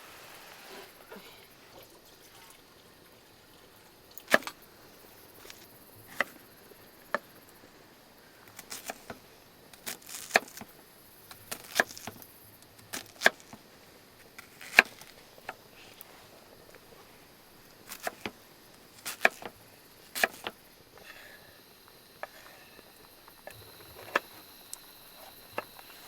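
A run of irregular, sharp clicks and knocks, about twenty spread unevenly over the stretch, some louder than others, with a faint steady background between them.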